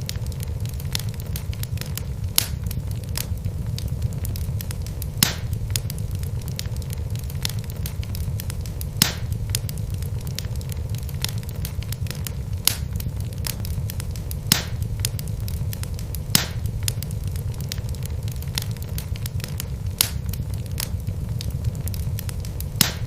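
Wood fire burning in a fireplace: a steady low rumble of flame with irregular sharp crackles and the odd louder pop from the burning logs.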